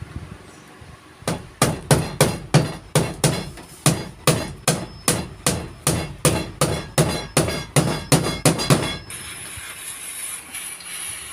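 Hammer driving a nail into wood with a steady run of about two dozen blows, roughly three a second, that stops about nine seconds in. The wood at the board's end is soft, and the nail does not hold well there.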